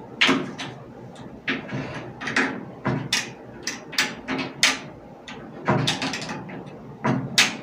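Sliding glass shower door pushed back and forth on its track, its rollers giving a run of short scrapes and squeaks. The roller bearings have just been lubricated, and the oil is still working in.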